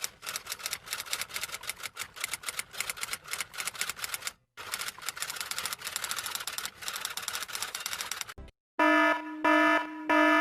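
Rapid typing clatter, many key strikes a second, running for about eight seconds with a brief break near the middle. Near the end an electronic alarm beeps in repeated even pulses.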